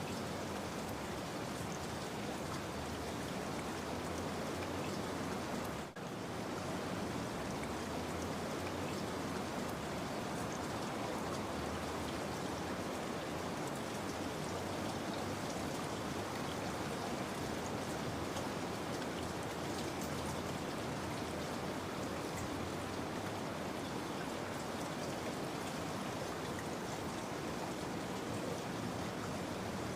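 Steady rain, an even hiss of falling drops without a break in rhythm, with a momentary dip in level about six seconds in.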